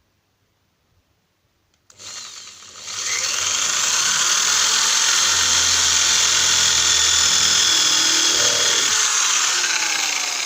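Power drill boring a guide hole into the wooden door: after about two seconds of quiet it starts, whines up to speed and runs steadily, easing off near the end.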